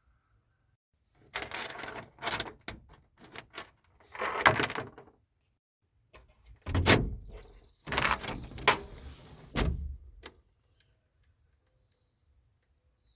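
Handling noises: a run of clunks, clicks and rustles in several bursts over about nine seconds, like gear being moved around and a door being worked.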